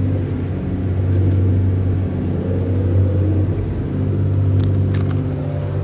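A motor vehicle's engine running steadily with a low hum, with two brief sharp clicks a little after the middle.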